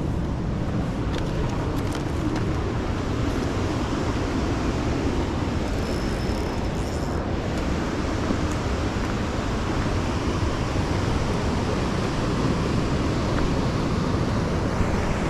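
Steady rushing of a waterfall: falling water making an even, unbroken noise.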